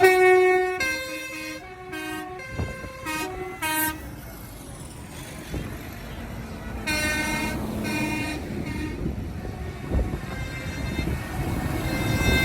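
Vehicle horns tooting in a run of short blasts at several different pitches, then another group about seven seconds in, over the low running of engines that grows louder near the end.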